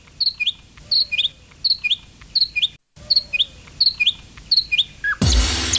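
A small bird repeating a short chirp, a high note followed by a quick upward stroke, about twice a second, with a brief gap near the middle. Music comes in loudly near the end.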